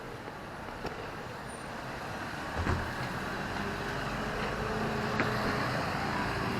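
A heavy vehicle approaching and getting steadily louder, with a steady low hum setting in about halfway through and a few sharp knocks.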